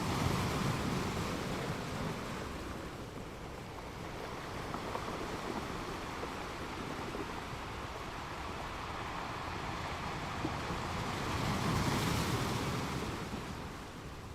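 Ocean surf: waves rushing and washing in as a steady hiss, swelling loudest at the start and again about twelve seconds in, then easing back.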